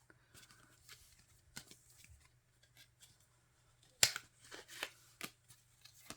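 Photocards and album packaging handled by hand: light rustling and scattered small clicks, with a sharper run of clicks about four seconds in.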